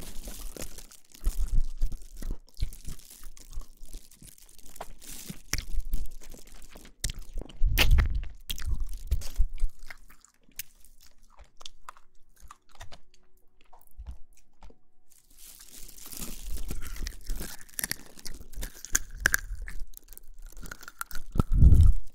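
Close-miked crunching and crackling in irregular bursts, quieter for a few seconds in the middle, then denser again before a louder crunch near the end.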